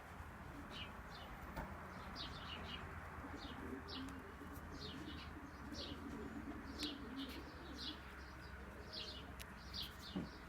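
Birds chirping in quick, high, short notes again and again, with pigeons cooing low underneath for a few seconds in the middle; all faint.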